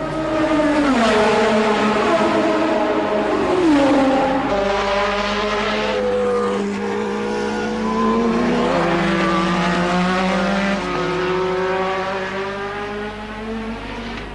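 Several 1984 Formula One race cars passing at high revs, more than one engine heard at once. Their notes drop in pitch as cars go by about a second in and again around four seconds in, while other engine notes hold steady. The sound is loudest around four seconds in and fades toward the end.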